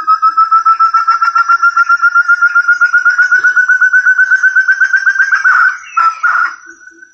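Forest partridge (puyuh hutan) calling: a long run of quick, clear whistled notes, about ten a second, slowly rising in pitch. Near the end it breaks into a few rougher, harsher notes and fades.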